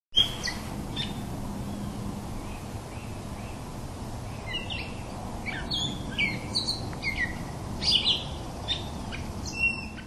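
Several small birds chirping, short downward-sliding calls scattered throughout, over a steady low background noise, with a short sharp knock right at the start.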